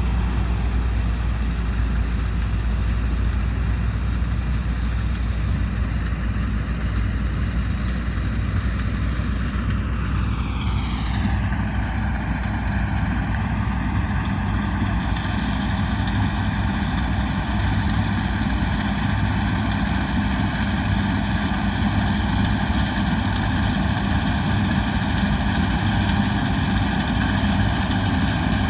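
Diesel engine of John Deere harvest machinery running steadily, with a high whine that drops in pitch about ten seconds in and then holds steady.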